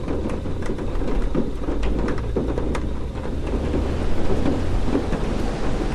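Heavy storm rain pelting down, with many sharp drop hits over a continuous low rumble of storm wind and thunder.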